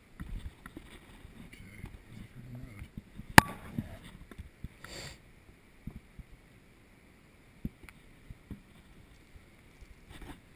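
Mountain bike rolling over rough ground: a low uneven rumble with scattered knocks and rattles, and one sharp click about three and a half seconds in.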